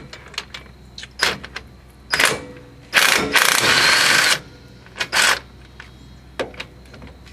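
A 1/2-inch drive impact wrench hammering in short bursts, with one longer run in the middle, on the hub assembly's bolts to break them loose.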